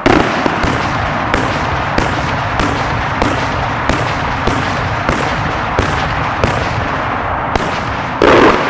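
Multi-break aerial firework shell bursting break after break: sharp bangs about every half to two-thirds of a second over a continuous dense noise, with one louder burst near the end.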